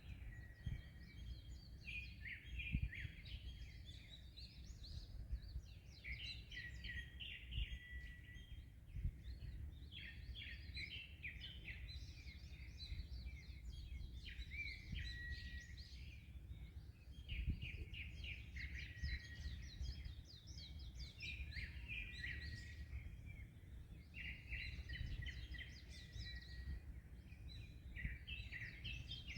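Several songbirds singing and chirping in quick repeated phrases, almost without pause, over a low steady rumble of wind and waves on the microphone.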